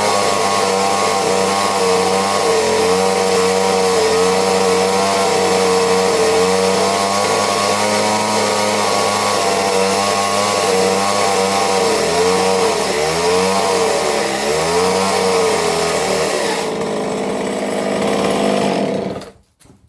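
McCulloch two-stroke chainsaw running at high speed, its pitch dipping several times as it works through wood, then shut off near the end.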